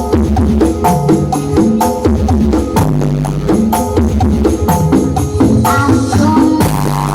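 Dance music played loud through the IMS Audio carnival sound system: rapid percussion hits over a heavy bass line that repeats in short notes.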